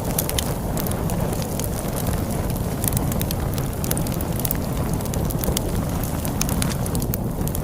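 Wood fire crackling with many irregular sharp snaps, over a steady low rumble of storm wind.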